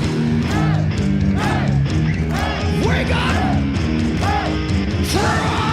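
Live heavy metal band playing an instrumental passage: distorted electric guitar playing a repeated phrase of bent notes over sustained bass and driving drums.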